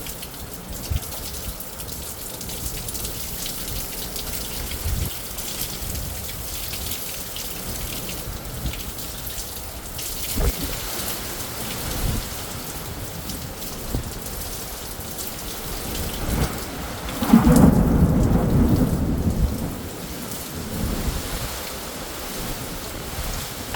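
Steady rain falling, with a clap of thunder rumbling low about three-quarters of the way through and fading over a few seconds.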